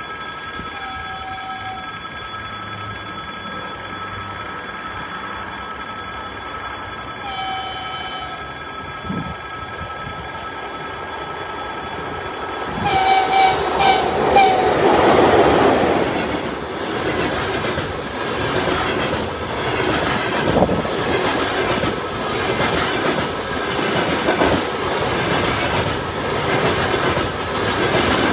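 EP1M electric locomotive with a passenger train: two brief horn notes, then a quick series of short horn blasts about 13 seconds in. The train then passes with loud, rhythmic wheel clatter and squeal from the carriages.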